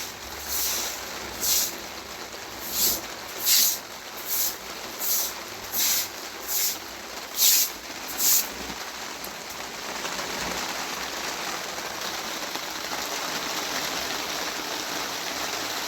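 Steady heavy rain, with a run of short, sharp hissing strokes about once a second through the first half, then the rain alone.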